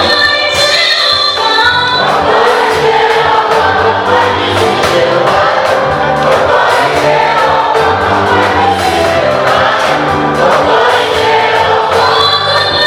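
Choir singing an African gospel song in harmony, with a low bass part held under the voices.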